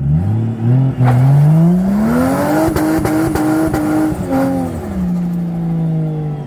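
A four-wheel drive's engine revving: the note climbs over about two seconds, holds high while several sharp knocks sound, then drops back to a steady lower note about a second before the end.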